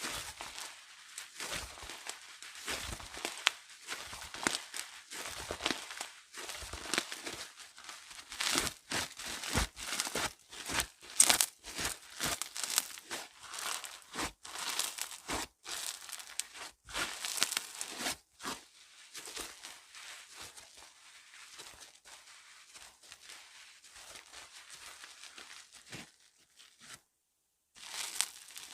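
Slime being squished, stretched and folded by hand, giving dense crisp crackles and pops. The crackling is thickest in the first two-thirds, goes sparser and softer later, stops briefly near the end and then starts again.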